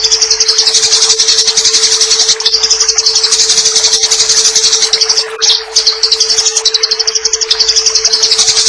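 Eurasian tree sparrows in a fight, chattering harshly and rapidly in a dense, unbroken stream of high chirps that pauses briefly about five seconds in. A steady hiss of running water and a steady low tone sit underneath.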